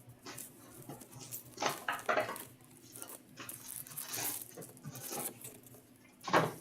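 Trading card boxes and foil packs being handled and opened: irregular rustling, crinkling and light taps, with a sharper rustle near the end.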